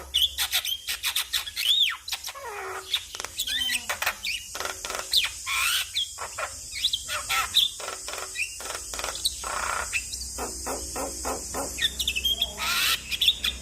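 Javan myna (jalak kebo) singing a rapid, varied chatter of gliding whistles, quick clicks and harsh rasping notes with hardly a pause.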